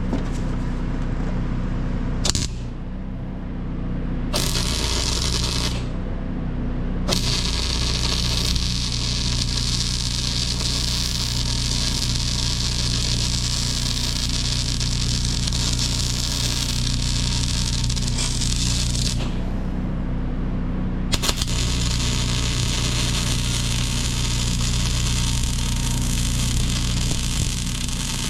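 Arc welding on steel: a crackling, hissing weld bead in three runs, a short one about four seconds in, a long one of about twelve seconds, and another from about twenty-one seconds on. A steady engine hum runs underneath.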